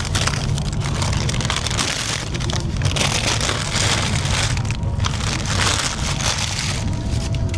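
Paper takeaway bag and food wrappers rustling and crinkling as a meal is unpacked, in uneven bursts, over the steady low rumble of a high-speed train running at speed.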